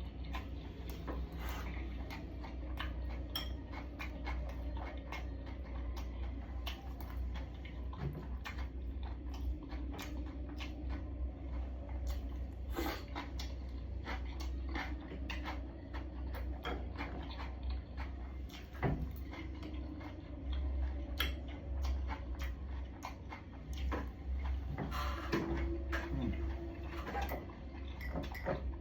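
Someone eating a packed lunch: many irregular clicks and taps of utensils on the lunch box, with mouth sounds of eating, over a steady low hum.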